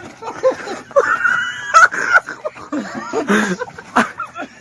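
A mix of an animal's calls and people's voices, with a held high call a second or so in and several sharp clicks.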